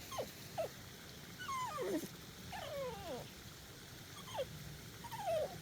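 Dog whining in a string of short, high calls that fall in pitch, the little trilling noise it usually makes when it has spotted an animal.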